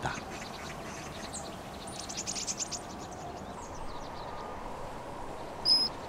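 Wild birds calling: a quick run of high chirps about two to three seconds in, then one short, high, clear whistle near the end, over a faint steady background hiss.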